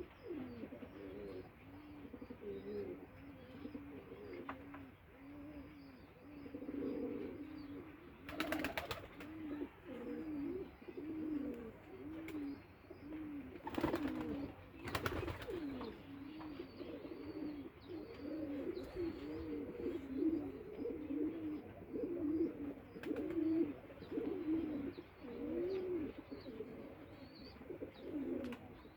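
Nakab posh pigeons cooing, low rolling coos repeated over and over. A few short, loud rustling bursts come through about a third and halfway in.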